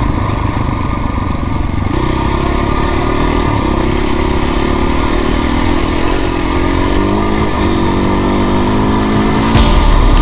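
KTM 450 EXC single-cylinder four-stroke dirt bike engine running under load while being ridden. The engine note steps to a new pitch about two seconds in and changes again around seven seconds.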